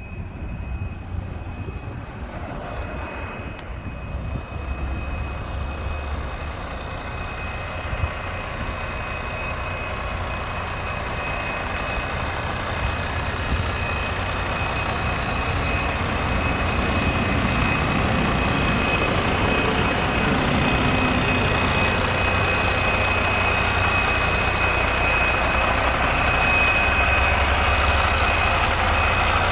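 A heavy truck engine runs steadily and grows gradually louder over the half minute, with a constant high-pitched whine above it.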